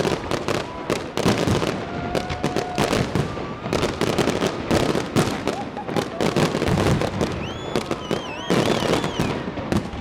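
Fireworks display going off: a dense, irregular run of cracks, pops and bangs, with whistling shells whose pitch rises and, near the end, wavers up and down.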